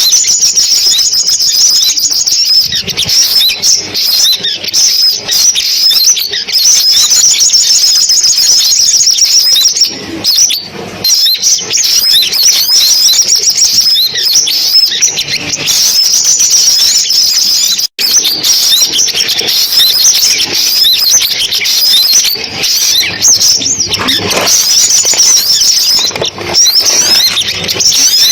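Sunbirds singing, a rapid, unbroken stream of very high-pitched chirps and trills, played as a recorded lure call. The sound cuts out for an instant about two thirds of the way through, like a splice between recordings.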